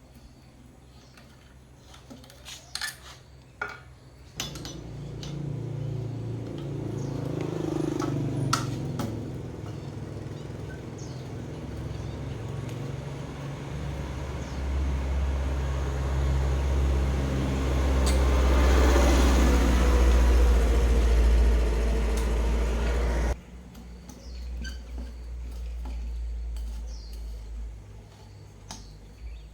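A few light clicks and clinks, then a machine starts and runs steadily with a low hum, growing louder, and stops abruptly after about twenty seconds.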